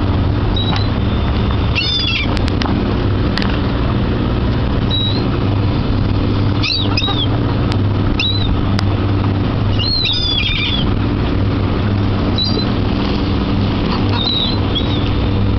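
Seagulls giving several short, high cries over a steady low engine drone.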